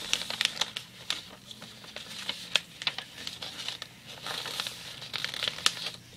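A sheet of paper being folded and creased by hand: irregular crinkling and crackling, with a couple of sharper, louder crackles.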